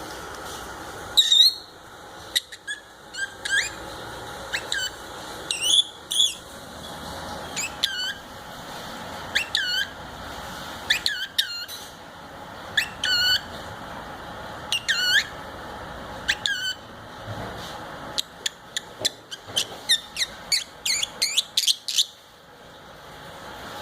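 Fischer's lovebird giving sharp, high-pitched chirps and squeaks, scattered singly and in short pairs, then a fast string of chirps near the end.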